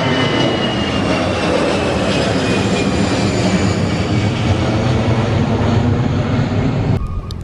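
Jet airliner's engines running loud and close, a high whine in them slowly falling in pitch as the aircraft passes. The sound cuts off abruptly near the end.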